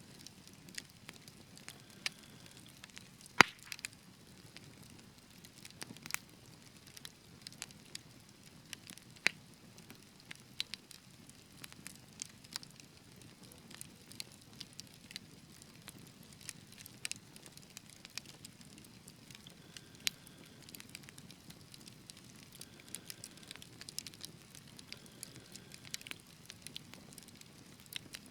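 Wood fire in a fireplace crackling, with irregular sharp pops of burning logs over a low steady rumble of the flames; the loudest pop comes about three seconds in.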